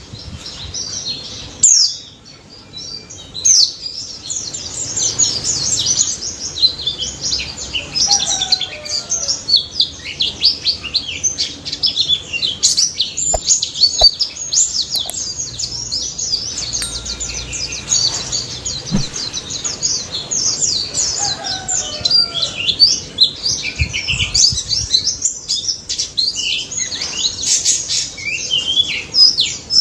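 White-eye (pleci) singing a fast, unbroken stream of high chirps and trills.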